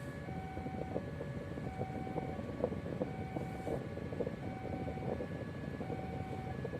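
Railway level-crossing warning alarm sounding a repeating two-tone electronic pattern, switching between notes about every 0.7 seconds, over the steady rumble of vehicles waiting at the crossing.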